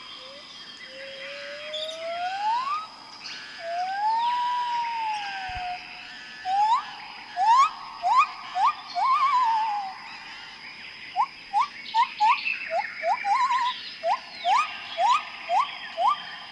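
A series of loud pitched whistles: a slow rising glide, then an arched whistle, then runs of short, quick upward-sweeping notes, about two a second, some ending in a wavering fall. A faint steady high tone continues underneath.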